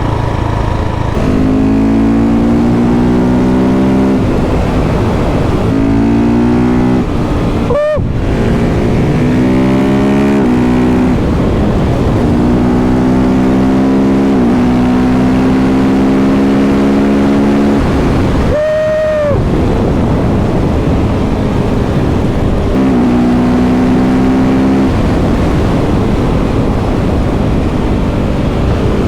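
KTM 690 SMC R single-cylinder supermoto engine with a Leo Vince exhaust, heard on board while riding. The engine note rises again and again as it pulls through the gears and drops back at each shift, with two brief throttle-off breaks about a third of the way in and just past the middle, over steady wind rush.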